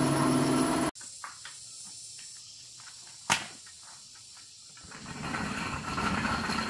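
A diesel engine running steadily, cut off abruptly about a second in. Then comes a quieter stretch with faint ticks and one sharp knock, and a rushing noise that rises near the end.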